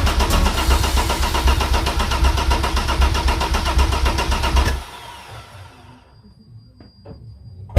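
Vauxhall Vectra GSi engine being cranked over by its starter motor with the fuel injectors disconnected, so it turns over in an even pulsing rhythm without firing, to get oil circulating. The cranking cuts off abruptly about five seconds in, and a single sharp knock follows near the end.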